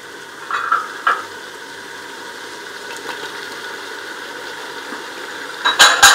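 Mutton, onions and spices frying in a pressure cooker with a steady sizzle as chopped tomatoes go in. A wooden spoon knocks and scrapes against the pot a couple of times about a second in, and again in a louder cluster near the end.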